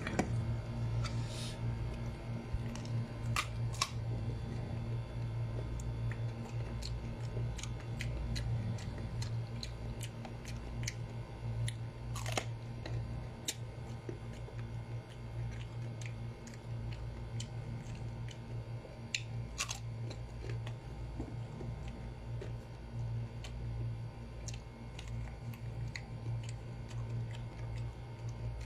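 Eating crisp, unripe sour green mango: scattered sharp, crunchy bites and chewing clicks over a steady low hum.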